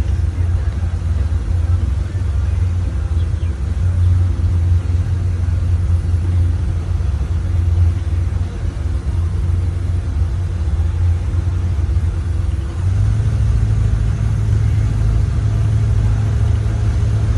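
Boat engine running with a steady low drone; about 13 seconds in its pitch steps slightly up and holds, as the throttle is opened a little.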